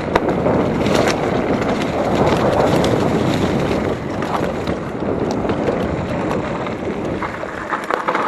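Mountain bike descending a wet dirt trail: a steady rush of wind on the microphone and tyre noise, with scattered clicks and knocks from the bike rattling over the ground.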